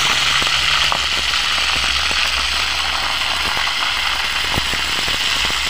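Fish frying in hot oil: a loud, steady sizzle with scattered small crackles and pops.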